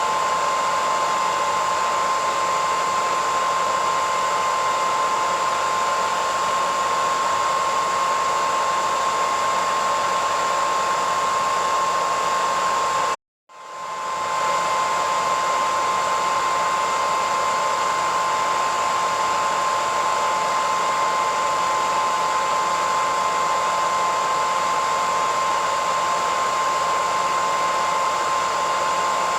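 Hair dryer running steadily: a even rushing noise with a high steady whine. About 13 seconds in it cuts out completely for a moment, then swells back up within a second.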